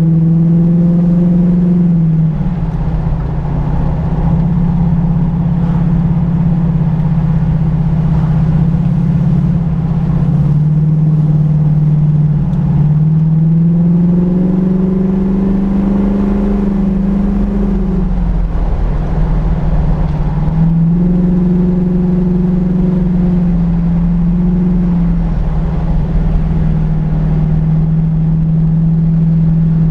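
Car engine running at speed, its pitch climbing as it pulls and dropping back as the throttle eases, several times, over steady road rumble.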